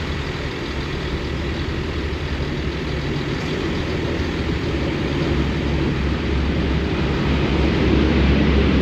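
Class 52 Western diesel-hydraulic locomotive D1015 Western Champion, with its twin Maybach engines running under power: a steady low engine drone that grows gradually louder.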